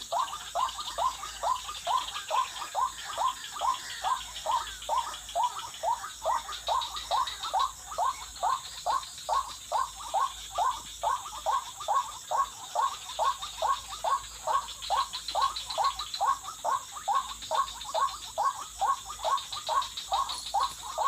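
White-breasted waterhen (ruak-ruak) calling in a fast, very even series of short falling notes, about two to three a second, without a break. A steady high hiss runs underneath.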